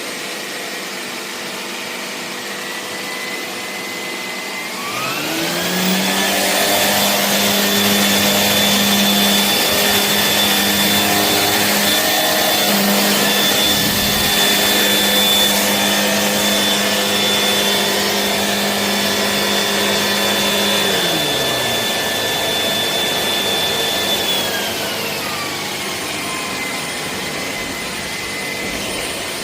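Shark PowerDetect vacuum motor running. About five seconds in its whine rises to a higher, louder speed, holds there for most of the time, then drops back to the lower speed near the end.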